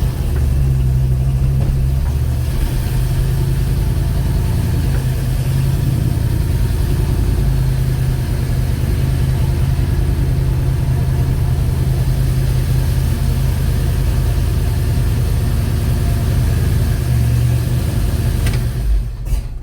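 Chevrolet 307 small-block V8 running with a loud valve train clatter that sounds like a diesel, caused by mismatched valve springs and retainers. The engine is switched off near the end.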